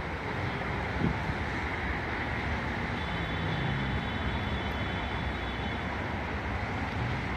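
Steady rumbling noise of a Metro-North commuter train pulling away into the distance, mixed with road traffic noise, with a faint high whine in the middle.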